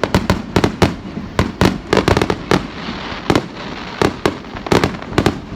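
Fireworks display: a rapid, irregular string of sharp bangs from bursting fireworks, often several within half a second, each with a short echoing tail.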